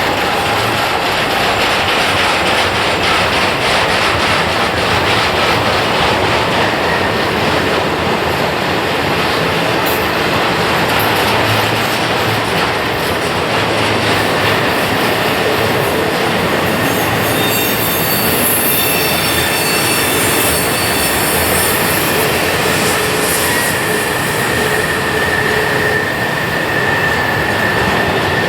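Norfolk Southern freight cars rolling past on a tight curve, with a steady rumble of steel wheels on rail. From about halfway through, wheel flanges grinding against the rail add high, steady squealing tones.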